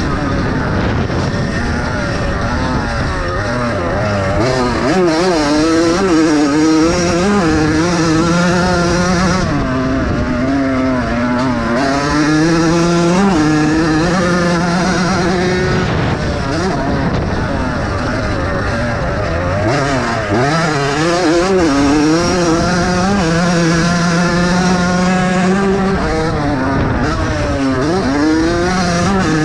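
Several vintage motocross bikes racing, their engines revving up and dropping back over and over as the riders accelerate, shift and ease off around the track.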